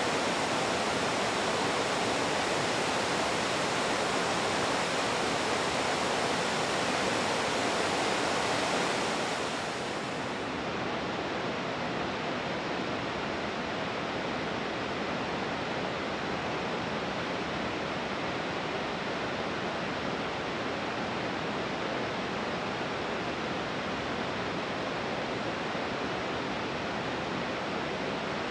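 Steady rushing of a waterfall. About nine seconds in, the sound drops a little in level and turns duller, losing its highest hiss, then goes on steady.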